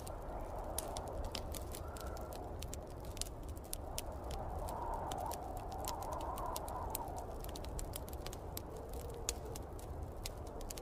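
Wood fire crackling, with frequent small sharp pops, over the steady low rumble of snowstorm wind. The wind swells for a few seconds midway.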